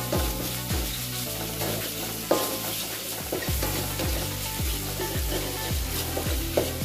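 Beef sizzling in hot oil in a pan as it is stirred, with a few knocks of the stirring, over background music with a steady bass beat.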